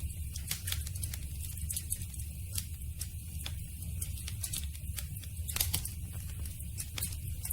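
Campfire burning: wood crackling and popping in irregular sharp clicks over a steady low rumble.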